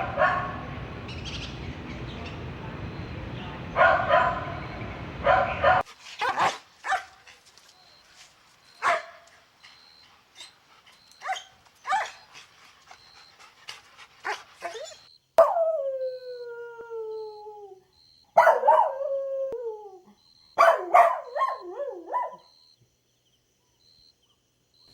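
Dogs yipping and barking in short bursts, with two long whines that fall in pitch a little past halfway and a quick run of yelps after them. The background hiss cuts off abruptly about six seconds in.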